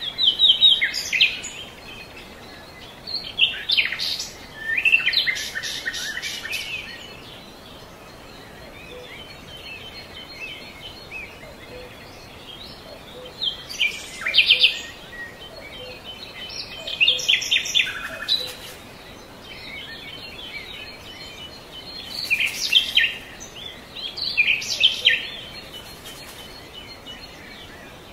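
Birds chirping and trilling in short phrases every few seconds, some as rapid runs of repeated notes, over a steady background hiss.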